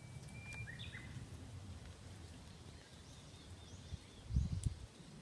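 Outdoor background with a steady low rumble and birds chirping: a short whistled note with a few chirps at the start, then a quick run of four or five high chirps. A dull low thump comes about four seconds in.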